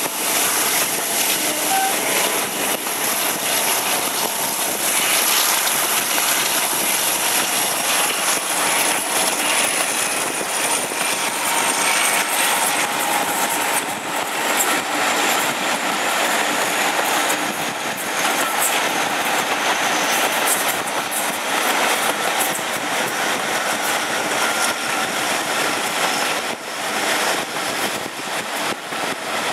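Passenger train running behind British Rail Class 52 diesel-hydraulic D1010 'Western Campaigner', heard from an open carriage window: a loud, steady rush of wheels on rail and passing air. A thin high whine slowly falls in pitch around the middle.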